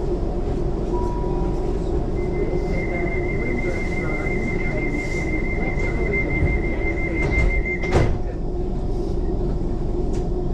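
Passenger train's door-closing warning tone beeping rapidly for about six seconds, cut off as the doors shut with a thud, over the train's steady hum while standing.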